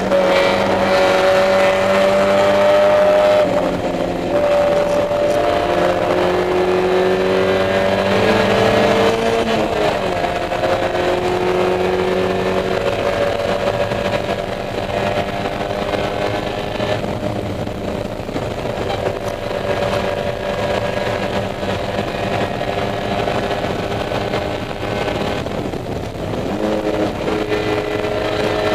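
Spec Miata's four-cylinder engine under racing load, heard inside the cabin. The revs hold high, drop twice in the first ten seconds at gear changes or lifts for corners, and climb again near the end.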